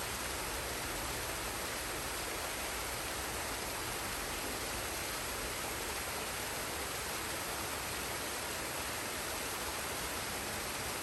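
A forest waterfall and stream: falling and running water makes a steady, even rush with no change in level.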